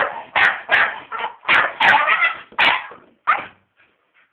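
Staffordshire bull terrier barking at a vacuum cleaner: a rapid run of about eight loud barks over three seconds, then a few faint sounds near the end.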